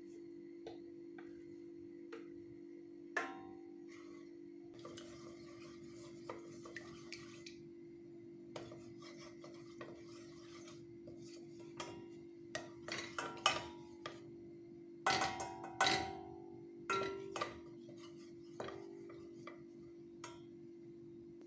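Kitchen handling sounds: utensils and dishes clinking, knocking and scraping at irregular moments, busiest in the second half, over a steady low hum.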